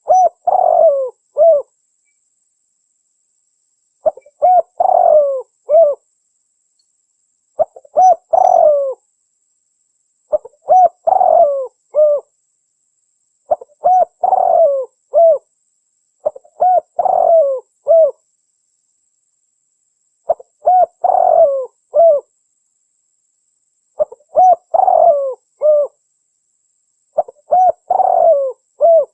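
Spotted dove (tekukur) cooing, played as a lure call recording for trapping wild doves. The call is a short phrase of a few low coos, repeated nine times about every three and a half seconds, with dead silence between phrases.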